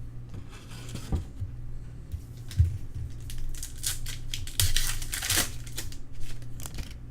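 Foil wrapper of a Prizm trading-card pack being torn open and crinkled, in irregular rustling bursts with a few soft knocks as the pack and cards are handled.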